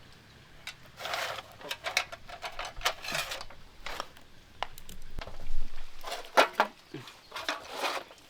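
Irregular clicks, knocks and short clatters of dishes and utensils being handled.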